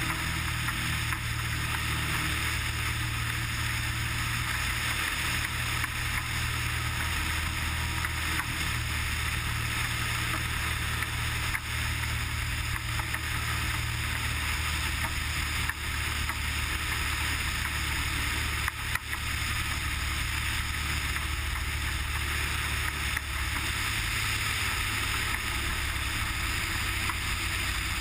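Cessna 180's six-cylinder Continental O-470 piston engine and propeller, a steady drone in flight with a low hum under a broad hiss.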